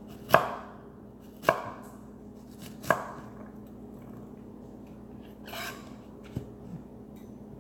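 Three sharp chops of a kitchen knife on a cutting board, each a little over a second apart, followed by a softer, brief noise a few seconds later.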